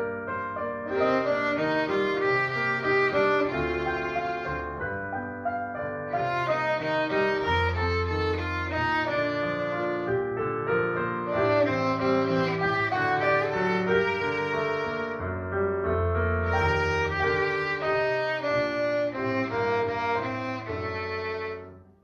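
Violin playing a melody in long held notes, with piano accompaniment.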